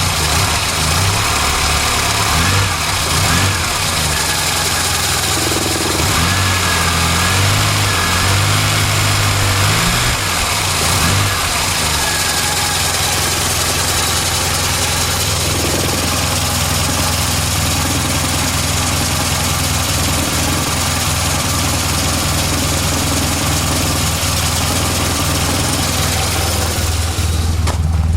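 1970 Morris Minor's four-cylinder A-series engine idling. The note wavers unevenly for about the first ten seconds, then settles into a steady idle.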